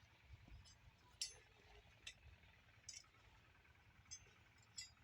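Near silence broken by four faint, sharp clicks spaced about a second apart.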